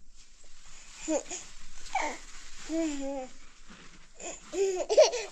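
A young child babbling in short high-pitched vocal bursts, with a louder laughing burst near the end.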